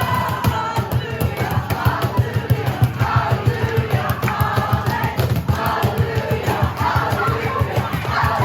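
A crowd of campers singing a praise song together in unison over a steady, evenly spaced beat.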